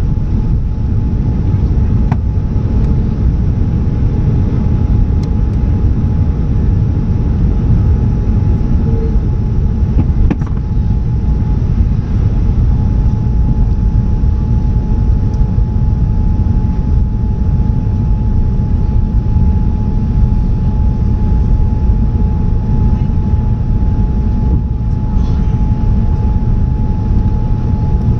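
Boeing 787-10 jet engines running at high power on takeoff: a steady heavy rumble with a thin steady whine that grows stronger about a third of the way through.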